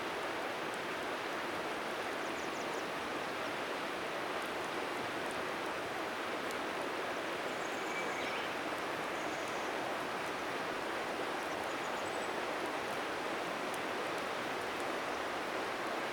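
Steady rushing of a flowing river, with a few faint high bird chirps above it and occasional faint ticks from a crackling bonfire.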